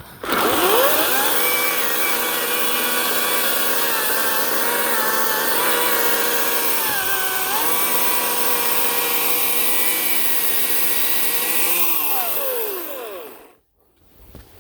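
Ryobi 18-inch battery electric chainsaw spinning up to speed with a rising whine, running steadily for about eleven seconds with its pitch sagging briefly twice as the chain bites into birch wood, then winding down and stopping near the end.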